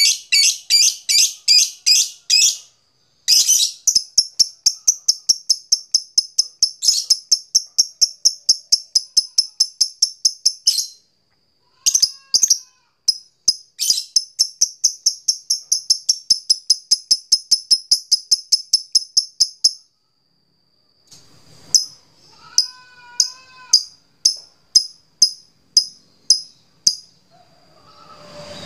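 Lovebird giving its long 'ngekek' chatter: long runs of fast, sharp, high-pitched repeated notes, several a second, broken by short pauses and slowing near the end. This is the excited, aroused song that keepers call 'gacor'.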